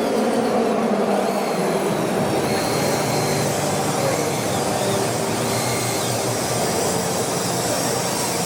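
Small electric motors of miniature RC toy vehicles whirring steadily, their pitch shifting slightly.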